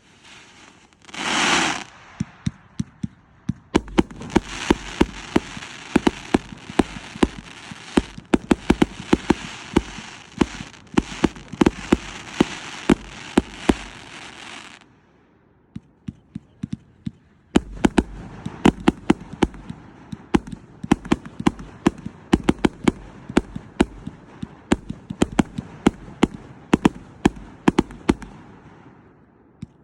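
A Motor City Rising 200-shot firework cake firing rapid volleys, several sharp shots a second over a crackling hiss. It stops for about two seconds midway, then fires again.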